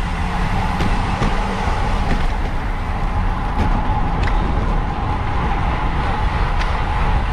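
Steady wind rush and low rumble on the microphone of a racing bicycle at speed, with a faint steady whine over it.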